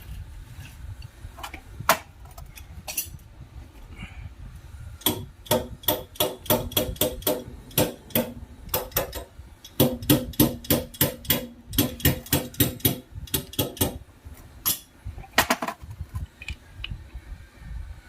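Hammer blows on metal, about four a second, in two long runs with a short pause between them and a few last strikes after.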